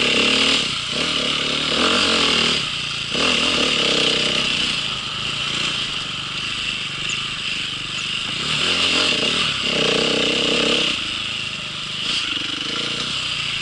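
Small single engine of an off-road vehicle running under way on a trail, its pitch rising and falling again and again as the throttle is worked.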